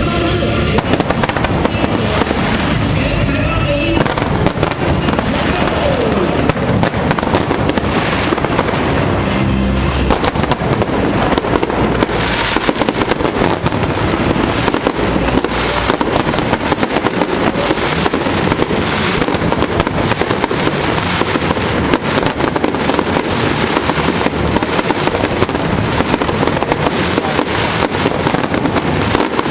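Fireworks display: a dense, continuous barrage of bangs and crackling. Music plays underneath, clearest in the first few seconds.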